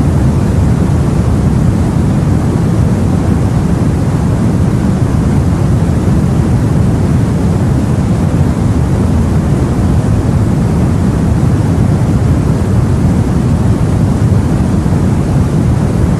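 Steady, deep rumbling sea ambience as heard aboard a boat, with no distinct waves or surges.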